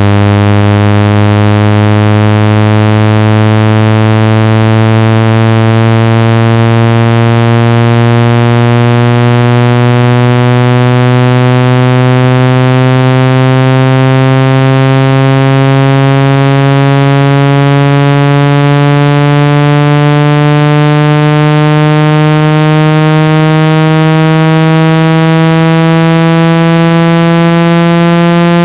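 Loud, buzzy synthesized tone, low-pitched and gliding slowly and steadily upward. It is a water- and dust-ejection sound, meant to shake water and dust out of a phone's speaker.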